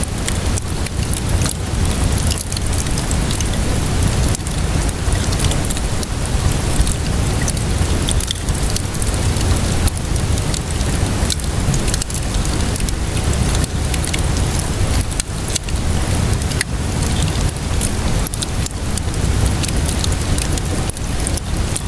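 Steady rainfall mixed with a crackling wood fire: an even hiss of rain over a low rumble, broken by frequent sharp pops and crackles.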